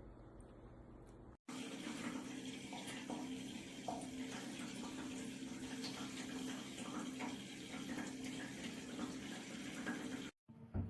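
Water splashing and trickling in a large dog water fountain, an even hiss dotted with small irregular drips and splashes, starting with a cut about a second and a half in.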